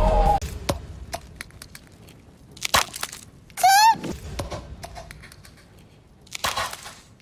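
Cartoon sound effects: scattered light clicks, a sharp hit, then a short high squeaky voice that wobbles up and down in pitch, likely a Minion; a second hit comes near the end.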